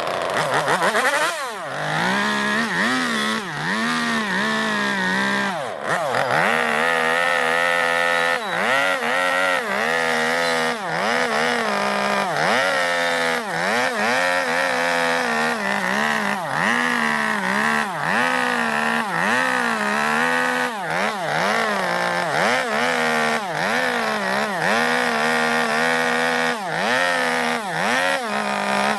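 Gasoline two-stroke chainsaw carving into zelkova wood, the engine revving up and dropping back over and over, about once a second, as the bar bites and eases off.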